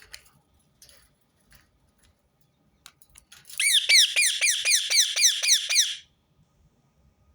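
Rose-ringed parakeet giving a loud, rapid run of shrill screeching calls, about five short falling notes a second for two and a half seconds, starting about halfway in, after a few faint clicks and chirps.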